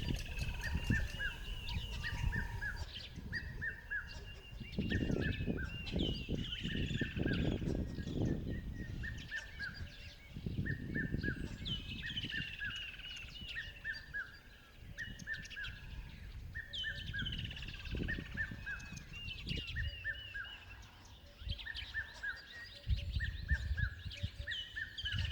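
Several wild birds calling together, one repeating short chirping notes over and over while others give higher sliding calls. Low rumbling comes and goes underneath.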